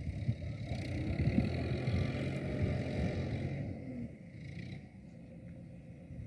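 Kubota M7040SU tractor's four-cylinder diesel engine running while ploughing. It drops to a quieter, steadier run about four seconds in.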